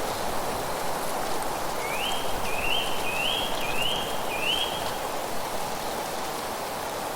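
Steady rushing outdoor ambience. Partway through, a bird calls five short notes in a row, each one sliding upward in pitch.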